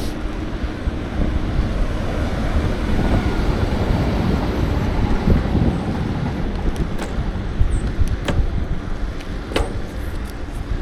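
Wind buffeting the microphone of a camera riding along on a moving bicycle: a steady low rumble, with a few sharp clicks in the second half.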